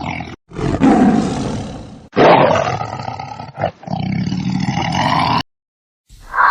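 Loud animal calls in several short clips joined by abrupt cuts, with a gap of silence a little over five seconds in.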